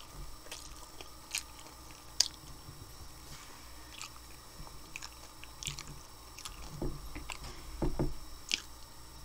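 A person chewing a mouthful of hard-shell taco filled with Salisbury steak and macaroni and cheese, heard close up: scattered crisp crunches and wet mouth sounds.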